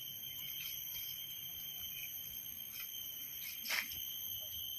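Steady high-pitched ringing drone of insects, several thin tones held without a break, with one soft knock a little past halfway.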